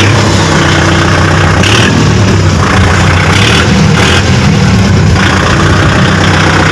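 Kubota MU4501 tractor's four-cylinder 2,434 cc diesel engine idling steadily, freshly started.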